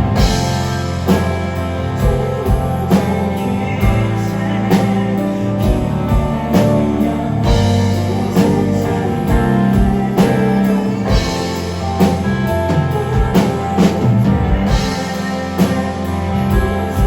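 Live rock band playing a song, with guitar over a steady drum-kit beat.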